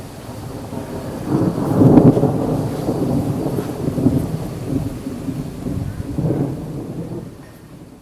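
Rolling thunder: a deep rumble that swells to its loudest about two seconds in, rolls on unevenly, and slowly dies away.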